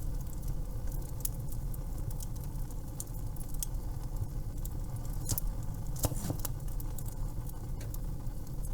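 Wood fire crackling in a fireplace: scattered sharp crackles over a steady low rumble, with a few louder pops about five and six seconds in.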